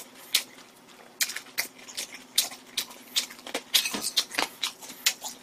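Close-miked chewing of a mouthful of food: irregular wet smacking clicks from the mouth, several a second, coming thicker from about a second in.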